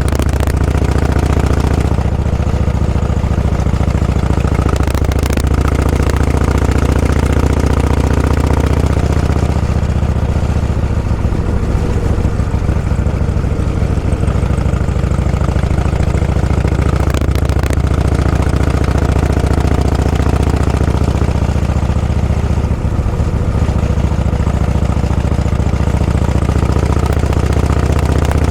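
A vehicle's engine running steadily and loudly, heard on board, with its pitch shifting slightly a few times.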